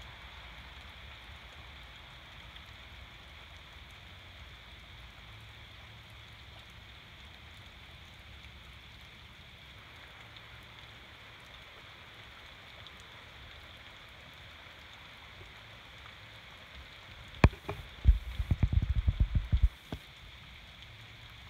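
Steady rain falling on a river's surface and the vegetation around it, an even hiss. Near the end, a burst of loud, low thumps and knocks lasts about two seconds.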